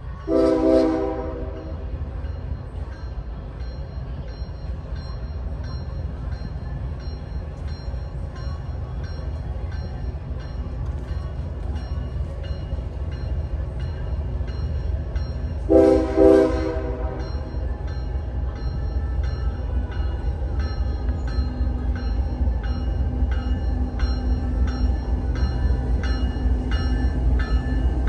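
Freight or passenger locomotive horn sounding one blast at the start and two short blasts about sixteen seconds in, over the steady rumble of a passing train. A rhythmic clicking of wheels over rail joints grows louder and quicker as the train goes by.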